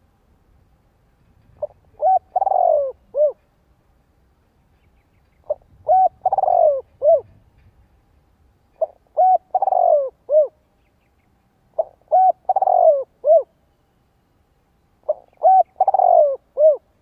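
Spotted dove cooing: five repeated phrases about three seconds apart, each a few short coos around one longer falling coo.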